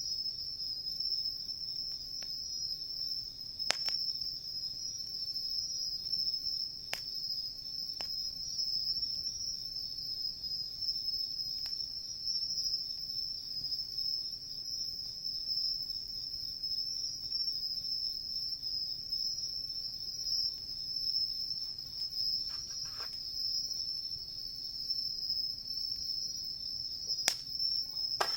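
A steady, high-pitched chorus of insects chirring without a break. A handful of sharp crackles from the wood fire are scattered through it.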